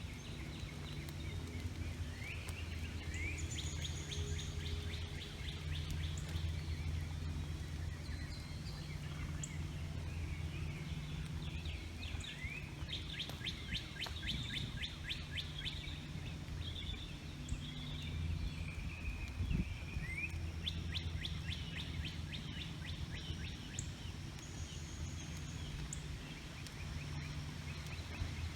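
Songbirds singing and chirping, with a fast trill repeating several times, over a steady low hum.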